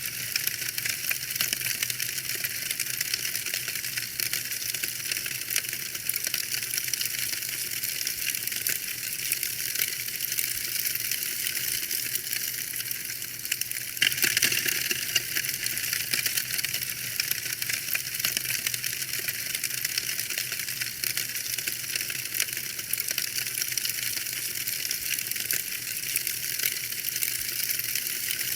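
Wood fire in a fireplace crackling steadily: a dense run of small pops and snaps over a soft hiss, with a louder flare of crackling about halfway through.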